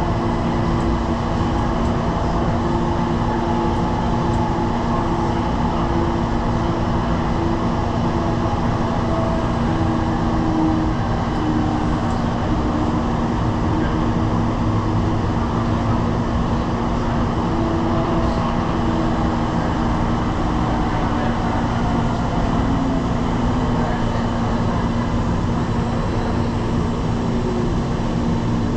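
Light-rail train running, heard from inside the car: a steady rumble of wheels on rail with the electric motors' hum on top, several of whose tones slide down in pitch in the last several seconds.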